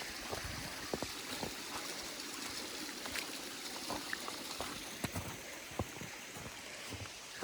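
Water running steadily at a partly frozen waterfall, with scattered small clicks and knocks.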